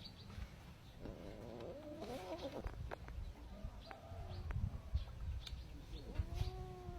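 An animal calling: a wavering, pitched call between about one and two and a half seconds in, then a long steady call from about six seconds in, over low knocks and thumps.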